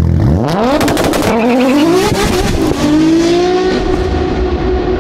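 A car engine accelerating hard: its pitch climbs steeply, drops back and climbs again, with a cluster of sharp cracks near the start, then holds a steady high note.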